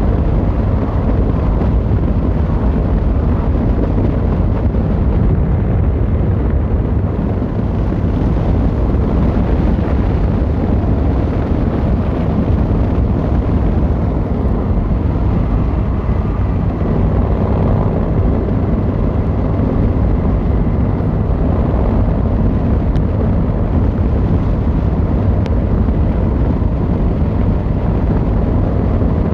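Yamaha XVZ1300 Royal Star's V4 engine and exhaust running steadily under way, a constant low rumble, with wind buffeting the microphone.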